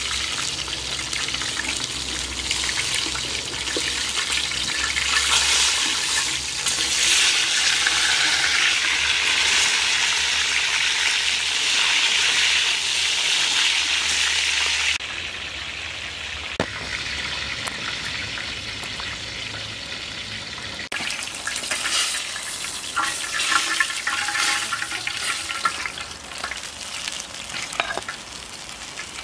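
A whole chicken frying in hot oil in a large cauldron, with a steady sizzle that is loudest in the first half. Now and then metal tongs click against the chicken and the pot.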